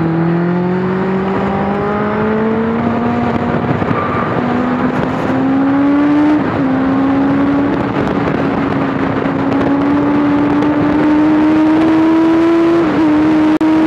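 Honda Fireblade inline-four motorcycle engine in a Locost kit car, heard on board under hard acceleration, its note climbing steadily. Two quick upshifts briefly break the climb, about six seconds in and near the end.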